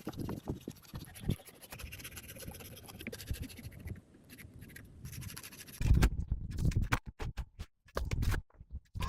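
Irregular scraping and knocking, with louder separate thumps from about six seconds in.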